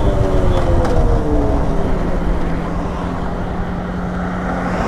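Lifan KP motorcycle engine winding down in pitch as the bike decelerates, then settling to a steady low idle for the last couple of seconds.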